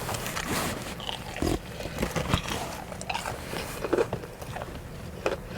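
A person chewing a crispy fried chicken tender close to the microphone, with irregular soft crunches and mouth clicks.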